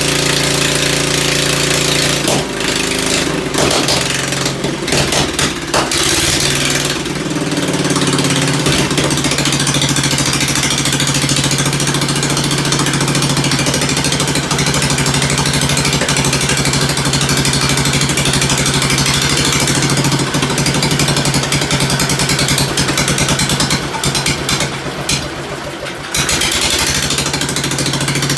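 Ford engine running, its speed changing over the first several seconds and then holding a steady run. The sound falters briefly near the end before recovering.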